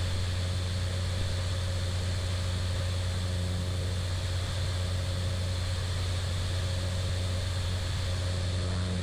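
Cessna 208 Caravan's PT6A turboprop engine and propeller running steadily at low power while taxiing, a constant deep hum with a faint steady whine above it.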